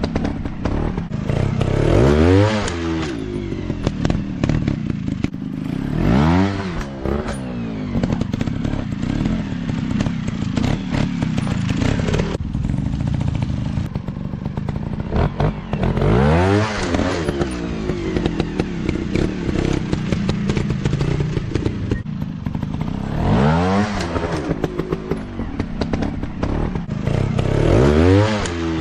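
Dirt bike engines running under load, revving hard about five times, the pitch climbing and dropping each time, over continuous engine noise with many short knocks and clicks.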